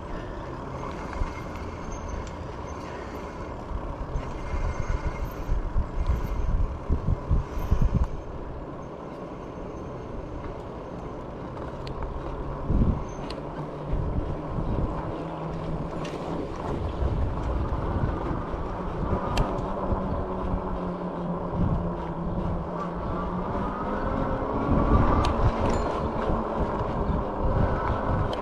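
Riding an e-bike: wind buffets the microphone in gusts, over a steady high whine from the bike's hub motor and tyre noise on the road.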